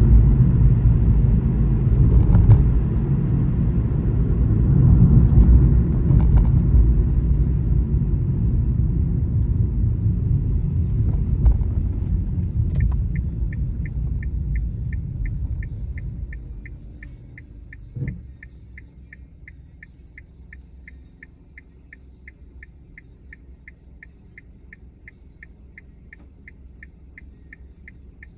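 Car road rumble heard from inside the cabin, fading away as the car slows to a stop. Partway through, the turn-signal indicator starts ticking about twice a second, and a single low thump comes shortly after the rumble dies.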